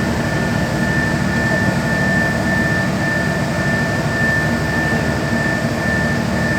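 Carrier 30GTN air-cooled chiller running with its 06E semi-hermetic compressors: a steady, loud mechanical drone with a low hum and a constant high whine.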